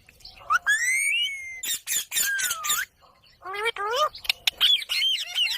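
Indian ringneck parakeet calling: a rising whistle, then a harsh screech that dips and rises in pitch, and after a short pause a quick run of chirping whistles.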